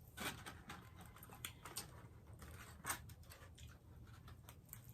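Faint, irregular wet clicks and smacks of someone chewing a mouthful of burger with their mouth close to the microphone, with the loudest click about three seconds in.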